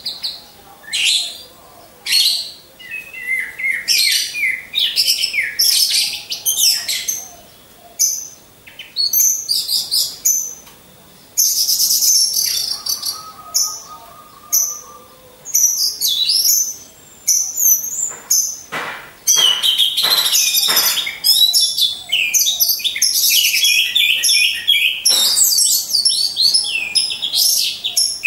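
Orange-headed thrushes (anis merah) in full song: fast, varied chirping and warbling phrases with short pauses between them. A few sharp clicks come about two-thirds of the way through.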